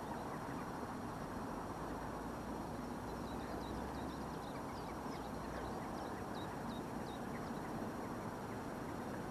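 Steady outdoor background rush, with faint, scattered high chirps of small birds over it.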